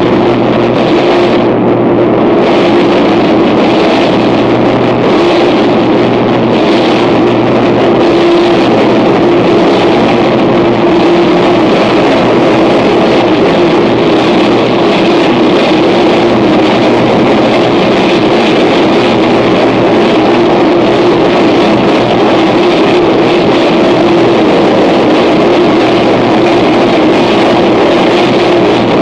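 Harsh noise music: a loud, unbroken wall of distorted noise over a steady low drone, with the top end pulsing briefly in the first few seconds.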